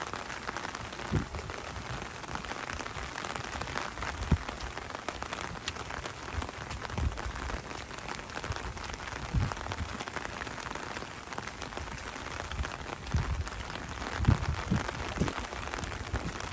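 Steady rain falling, a dense patter of many small drops, with a few low thumps scattered through it.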